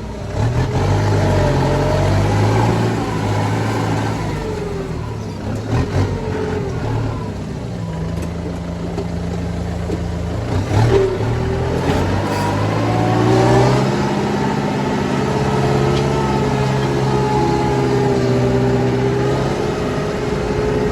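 Tractor engine running under changing throttle, its note shifting up and down a few times and then holding steady through the second half.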